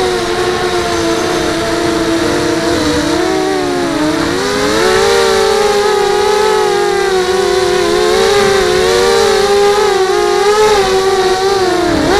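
FPV quadcopter motors and propellers whining, the pitch rising and falling with the throttle, with a dip about four seconds in and a sharp drop near the end.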